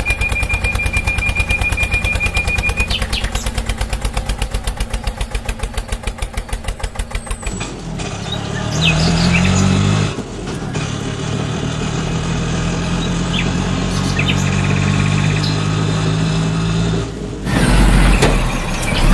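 Vehicle engine sounds: a fast, even chugging for the first seven seconds or so, then a steadier engine hum with a brief rise in pitch, and a louder rougher stretch near the end.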